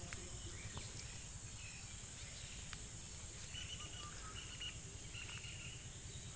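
Rural outdoor ambience: insects droning steadily at a high pitch, with short bird chirps from about halfway in, over a low rumble.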